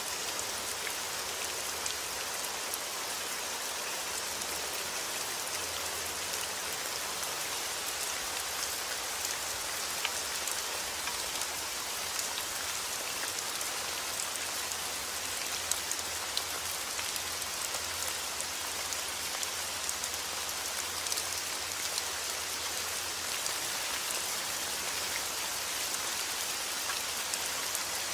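Heavy rain falling steadily, a dense even hiss of drops with sharp individual drop ticks scattered through it.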